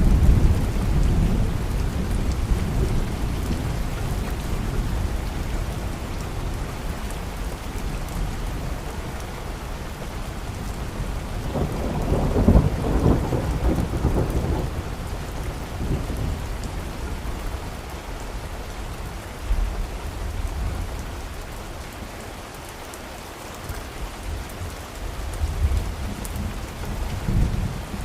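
Steady rain with rolling thunder. The thunder is loudest about halfway through, then dies down and starts rumbling again near the end.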